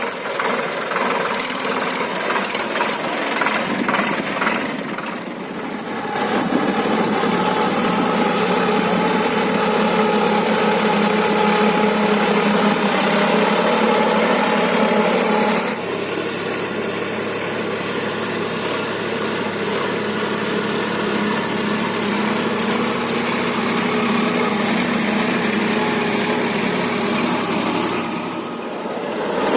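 Solis 5015 tractor's diesel engine running steadily. Its sound steps up abruptly about six seconds in and drops back suddenly past the middle.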